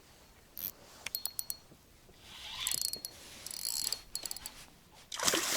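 Spinning reel being worked in short bursts, its gears and pawl giving a fast, fine clicking whirr, while a hooked pike is played on a jig. A louder rush of noise comes just before the end.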